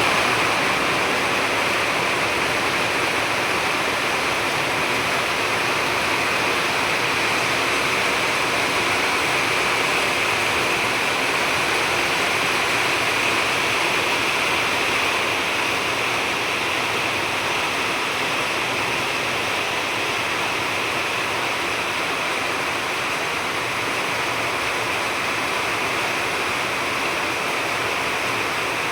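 Heavy rain falling, a loud, steady, dense hiss that does not change.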